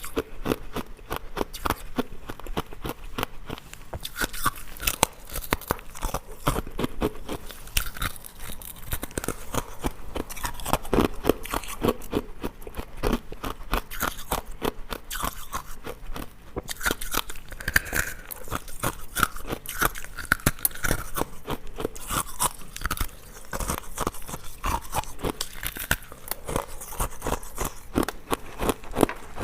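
Hard ice being bitten and chewed close to the microphone: rapid, crisp crunching and cracking as the ice breaks up between the teeth.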